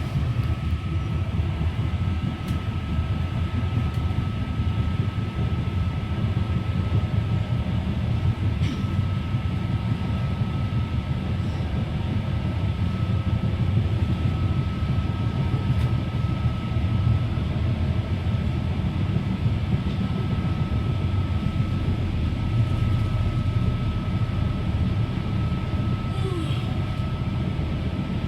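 Inside the carriage of a Northern Ireland Railways Class 3000 diesel multiple unit under way: the steady low rumble of the running train, with a constant high whine and the saloon fans blowing over it.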